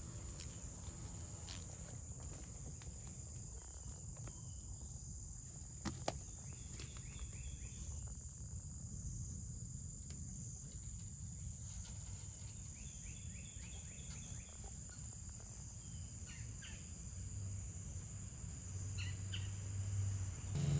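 Steady high-pitched insect drone over a low rumble, with a single sharp click about six seconds in and a few short chirps in the second half.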